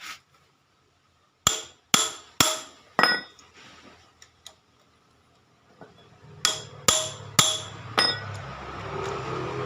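Sharp metallic strikes that ring briefly, a run of four, then after a pause four more, like a hammer hitting a metal part.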